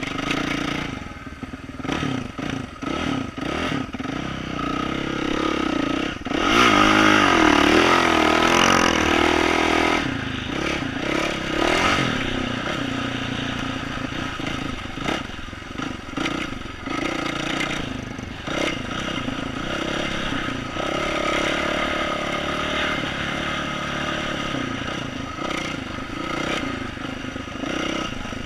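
2012 Yamaha YZ450F dirt bike's single-cylinder four-stroke engine with an aftermarket exhaust, running and revving while riding over a rooty trail, with clattering from the bike over the bumps. The loudest, hardest revving comes about six to ten seconds in, the pitch swinging up and down.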